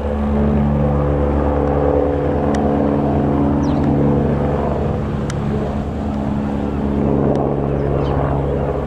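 An engine running steadily, a loud low hum made of several held tones that shift slightly in pitch, with a few faint clicks.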